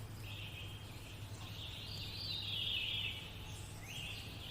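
Birds chirping in a nature-sounds backing track, swelling a little in the middle, over a steady low hum.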